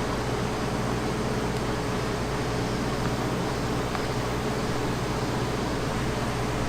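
Steady mechanical hum with a constant hiss, as from a running fan or kitchen machine, unchanging throughout.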